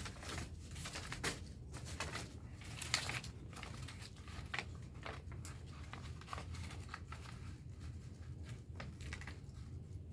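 Close handling noises: paper crinkling with many small irregular taps and knocks, as a fallen phone is picked up and set back in place.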